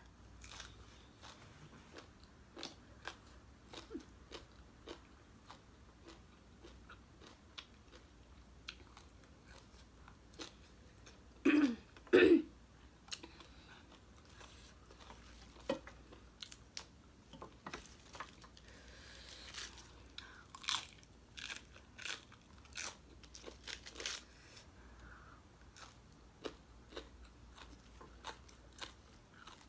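A person chewing and crunching mouthfuls of spicy papaya salad with green beans, heard close up as a string of small crisp bites and mouth clicks. About twelve seconds in come two short, louder throat sounds.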